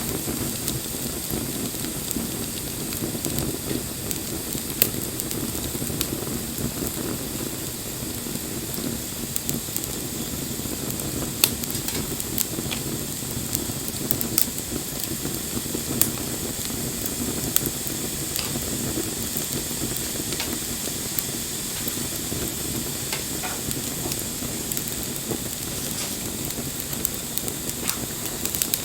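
Wood bonfire burning: a steady hiss and rustle of the flames with sharp crackles and pops scattered through, a handful of them louder than the rest.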